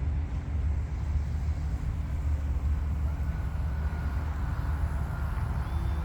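Steady low rumble of wind buffeting the microphone. From about three seconds in, the faint thin whine of the radio-controlled Super Decathlon's motor and propeller passes, drifting slightly lower in pitch.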